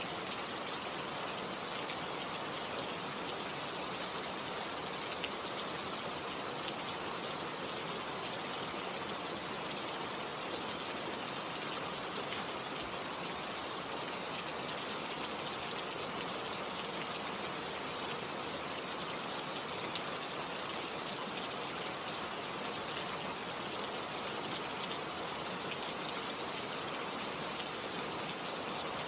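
Steady rain falling, an even hiss of many drops with scattered small taps of raindrops.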